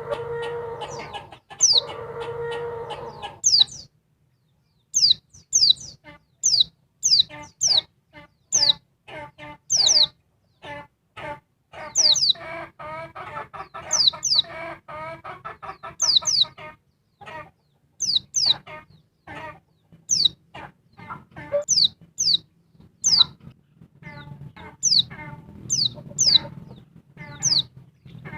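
Female white-eye (pleci) calling: a long series of short, high, falling chirps, often in quick pairs, repeated every second or so. Lower, harsher clucking notes come in at times, thickest at the start and again in the middle, over a faint low hum.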